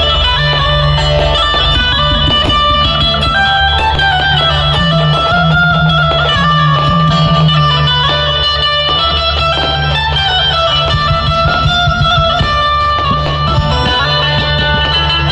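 Loud amplified dhumal-band music: a melody on a plucked-string instrument over a heavy, booming bass and a driving drum beat.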